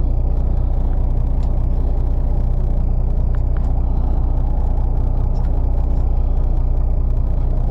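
Fishing boat's engine running with a steady low drone, heard aboard.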